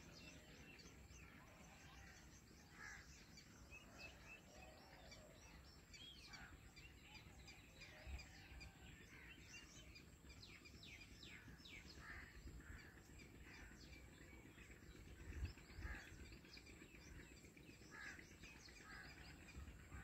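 Faint, scattered bird chirps over quiet background noise, with a couple of soft low bumps.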